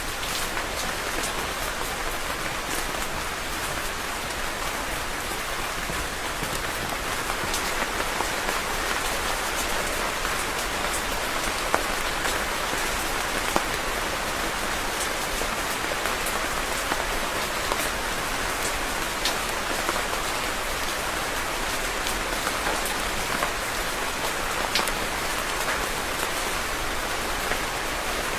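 Steady rain falling on a surface, a continuous hiss with many separate drops ticking through it.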